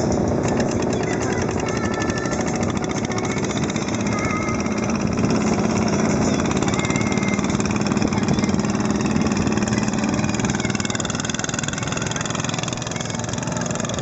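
Riverboat engine running steadily.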